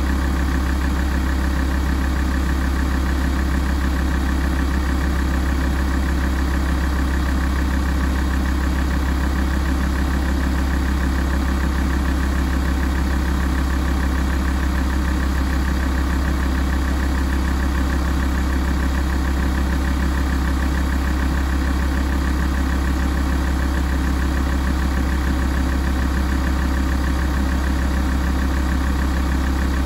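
Alfa Romeo 166 JTDm's 2.4-litre five-cylinder turbodiesel idling steadily while warming up.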